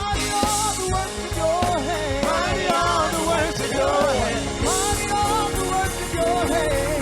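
Gospel worship band playing with drums and keyboard chords, and a voice singing or ad-libbing without clear words between lines of the song.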